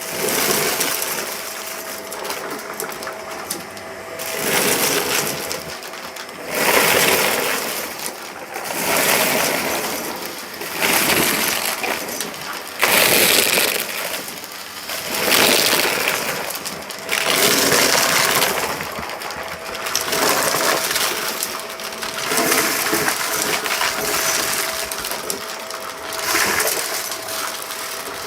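Vacuum cleaner running with a steady motor whine while it sucks up a debris mix. The debris crunches and rattles through the machine in surges about every two seconds as it is pushed back and forth.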